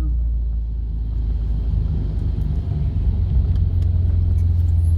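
BMW E36 328's straight-six running through a MagnaFlow muffler while the car is driven: a steady, low exhaust drone heard in the cabin, firming up from about two seconds in.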